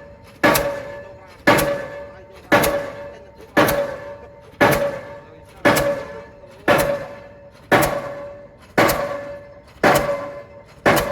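Delmag D46-32 diesel pile hammer driving a 450 mm PHC concrete pile: sharp, ringing blows at a steady rate of about one a second, eleven in all, each dying away before the next.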